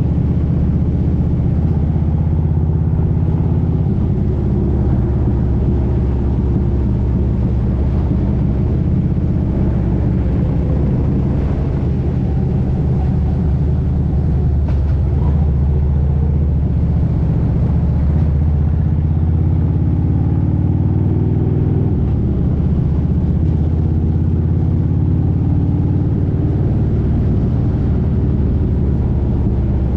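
Motorcycle engine running while riding on the road, its pitch shifting up and down with the throttle and rising a little past the middle.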